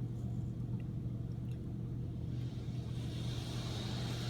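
Honda Fit idling in park, heard from inside the cabin as a steady low hum. About halfway through, a hiss of car wash spray jets starts up and grows.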